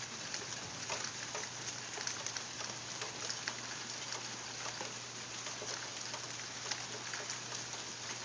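Heavy rain falling steadily: a dense hiss dotted with many small drop ticks.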